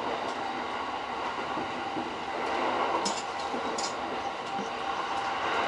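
E231-series electric train running, heard from inside the lead car: a steady rolling noise, with two brief high hissing sounds about three seconds in.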